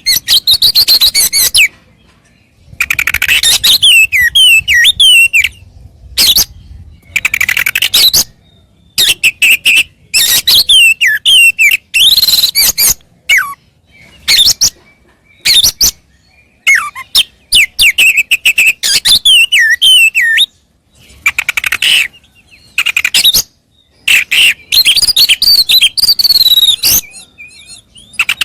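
Oriental magpie-robin (kacer) singing loudly. Its varied phrases of whistled, sliding notes and rapid chattering come in bursts of a second or two with short pauses between them. This is the excited full song of a bird running through its repertoire of learned notes.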